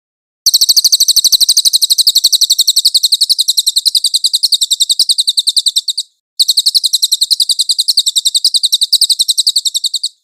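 Songbird masteran recording: a rapid, evenly spaced trill of high chirps. It pauses briefly about six seconds in, then resumes.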